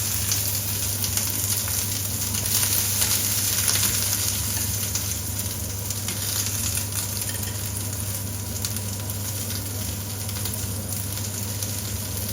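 Diced onions sizzling in a frying pan: a steady, dense crackle.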